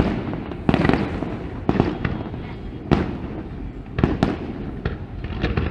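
Aerial fireworks going off close by: a string of sharp bangs, roughly one a second with two close together near the four-second mark, over continuous crackling and rumbling.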